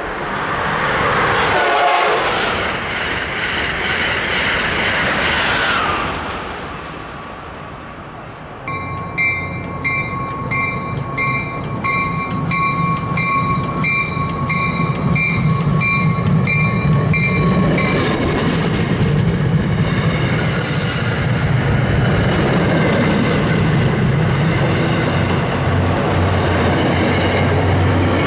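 Trains running through a commuter rail station. For the first few seconds there is loud rushing train noise with a falling whine, and then it dips. From about a third of the way in, an MBTA commuter train with a diesel locomotive approaches and passes: a low engine rumble and wheel noise build steadily, with a pulsing high ringing about twice a second for several seconds.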